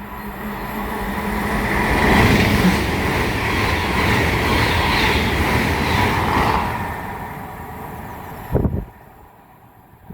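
GWR Class 800 IET train passing through the station at speed. The rushing noise builds to its loudest about two seconds in and fades away after about seven seconds, with a brief low thump near the end.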